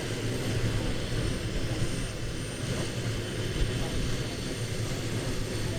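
AutoGyro Calidus autogyro's Rotax four-cylinder engine and pusher propeller running with a steady drone.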